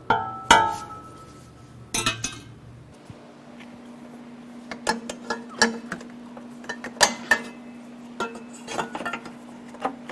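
Metal exhaust parts clinking and knocking as they are handled: a couple of sharp knocks at first, then a run of light clinks. A faint steady hum starts about three seconds in.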